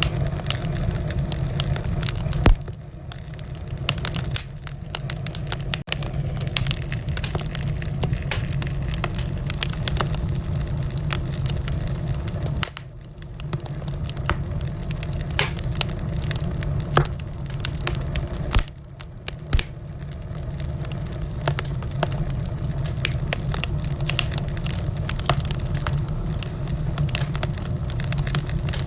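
Wood fire in a fireplace crackling, with frequent sharp pops and snaps over a steady low rumble; a few pops stand out louder, and the sound dips briefly about three times.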